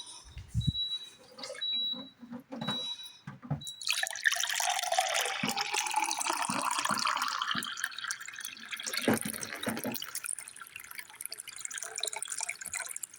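Water from a dehumidifier's collection bucket being poured out in a splashing stream, starting about four seconds in and tailing off near the end. Before the pour, a short high beep repeats about every half second.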